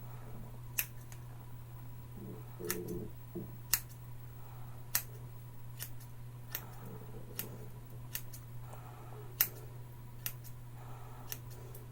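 Scissors snipping through hair in short, sharp single cuts, irregularly spaced about once a second. The blades are dull enough that the owner means to sharpen them on a 1K stone. A steady low hum runs underneath.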